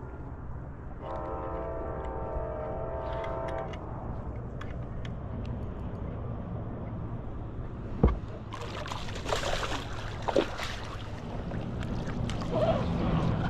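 A steady horn-like tone sounds for about two and a half seconds, starting about a second in. About eight seconds in there is a sharp knock, followed by splashing and clattering noise as the hooked fish is brought to the kayak.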